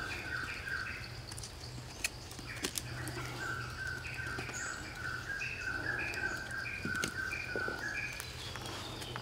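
A bird calling a long run of short two-pitched notes, about two to three a second, over a steady high hiss, with a few light clicks and knocks of green sticks being laid across a wooden rack.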